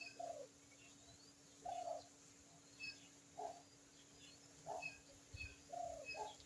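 Faint bird calls: short low notes repeating about once a second, mixed with thin high chirps.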